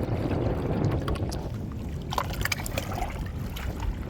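Wind buffeting the microphone over water sloshing against jetty rocks, a steady low rumbling noise with a few faint clicks midway.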